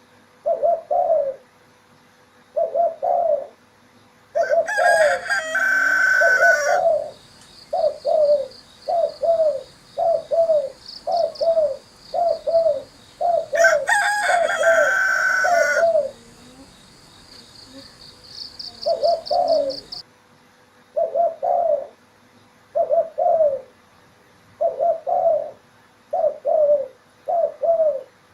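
Spotted dove (tekukur) cooing over and over in short rhythmic phrases. A rooster crows twice, each crow lasting about two seconds, about five and fourteen seconds in. A faint high trill from a small bird comes in between.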